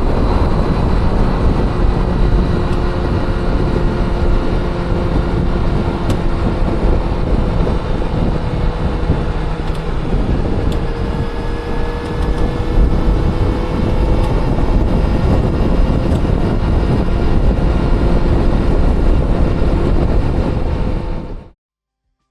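Honda CBR400RR (NC23) inline-four engine running at a steady, slowly drifting speed while riding, under a dense rush of road and wind noise. It cuts off abruptly near the end.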